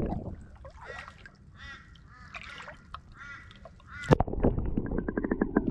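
A bird calling with a run of short, harsh, honking calls. About four seconds in, a loud knock, then a quick run of sharp clicks or splashes.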